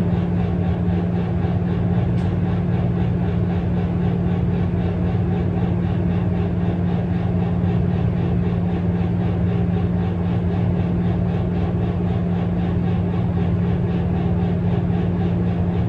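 A steady machine hum: a low droning tone over an even rushing noise, unchanging throughout.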